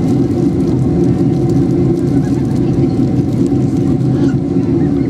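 Steady low drone of jet engines and rushing air inside a Boeing 767-300's passenger cabin, during the climb after takeoff.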